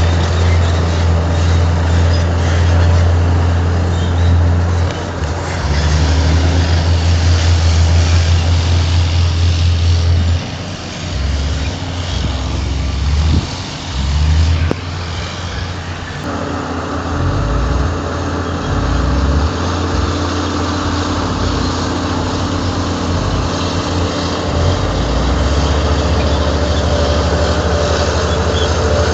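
Heavy diesel machinery running loudly. The low engine drone is steady at first, becomes uneven and changing about a third of the way in, then settles into a steady run for the rest.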